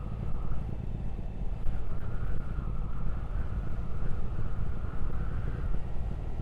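Triumph Speed Twin 1200's parallel-twin engine running steadily while riding, with wind rushing over the helmet microphone.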